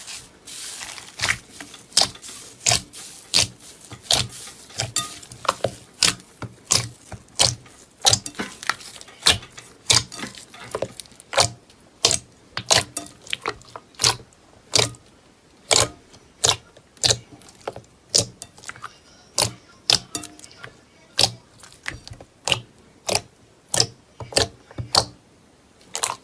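Crisp cracks and pops repeating about one to two times a second, from a crunchy material being pressed or crushed by hand, as with crunchy slime or dry floral foam.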